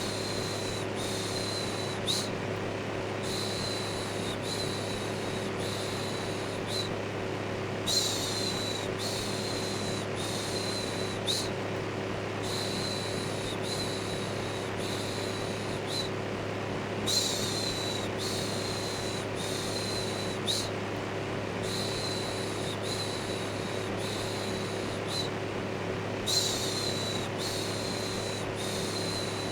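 Electric fan running steadily with a low hum, under a looped 'shhh' shushing sound. The shushes come in short hissy strokes about once a second, in runs of about four, with a brief pause between runs.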